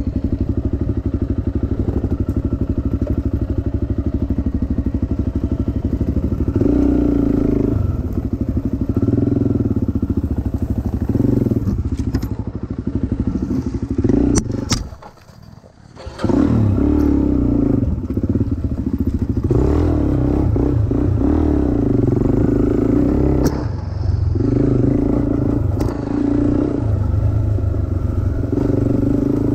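Dirt bike engine running under throttle, its revs stepping up and down, with a few sharp knocks. The sound drops away for about a second midway, then the engine carries on.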